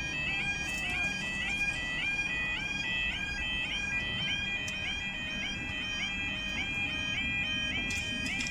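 Level crossing warning alarm sounding as the barriers lower, a fast, steadily repeating two-tone warble.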